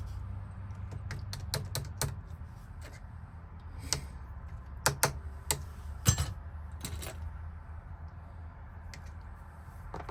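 Irregular sharp metal clicks and taps of a thin tool being worked into a Ford F-150 ignition lock cylinder, bunched most thickly a little past the middle, over a steady low hum.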